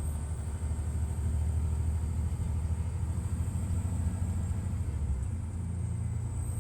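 Detroit Diesel Series 60 inline-six diesel of a 2002 MCI D4000 coach running under load with a steady low rumble. A high-pitched whine rises in pitch and falls back again near the end.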